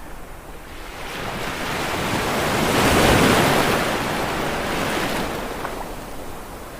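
Ocean waves: one wave swells up, breaks about three seconds in with a loud wash of surf, then hisses back and fades.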